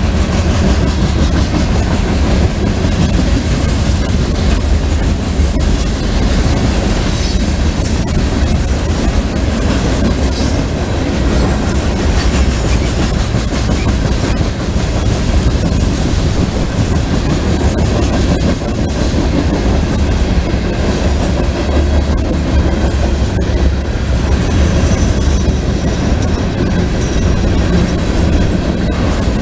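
Freight train of hopper cars rolling past: a steady, loud rumble of steel wheels on the rails with continual clickety-clack over the rail joints. A faint high wheel squeal comes in near the end.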